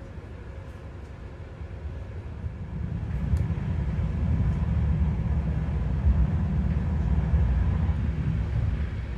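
Regional train running, heard from inside the carriage: a steady low rumble that grows louder about three seconds in.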